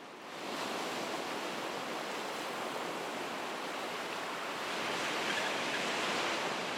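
Ocean surf washing: a steady rush of water noise that swells slightly about five seconds in.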